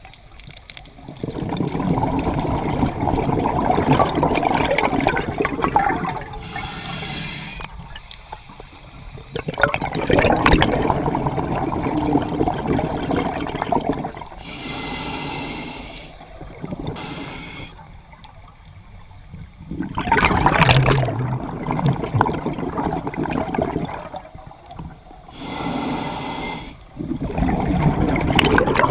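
Scuba diver breathing through a regulator underwater: a short hissing inhale, then a long rush of exhaled bubbles, repeating slowly, about one breath every eight seconds.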